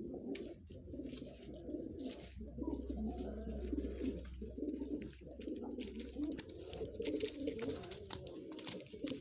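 Several domestic pigeons cooing together in a coop, a continuous overlapping murmur of coos.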